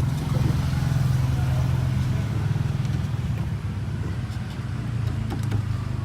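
Toyota car engine idling steadily, a little louder for the first three and a half seconds and then slightly softer.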